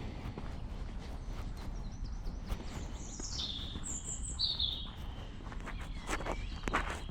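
A songbird sings a short phrase of high chirps in the middle, one descending run then a few sharp notes, over a low steady background rumble. Footsteps on a path start near the end.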